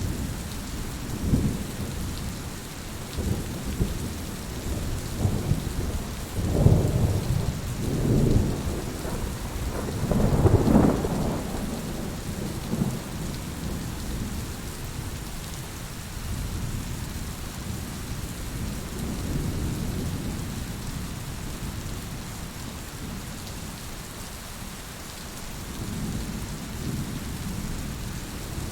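Heavy rain falling steadily, with rolls of low thunder rumbling through it, the loudest a few seconds before and after the ten-second mark and a softer one near the end.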